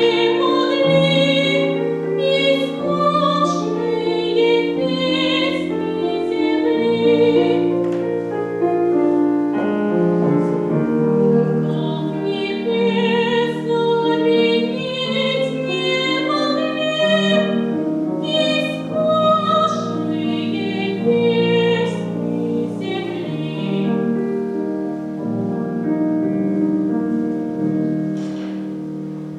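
A solo singer performing a classical, opera-style piece with vibrato, accompanied by piano. The music dies away near the end.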